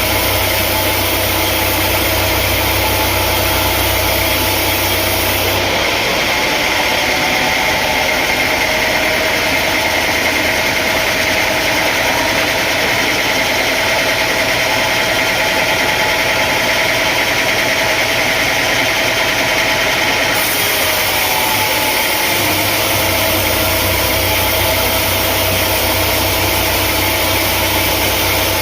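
Sawmill machinery running steadily, a constant engine-like drone. The deep rumble drops away about six seconds in and comes back near the end.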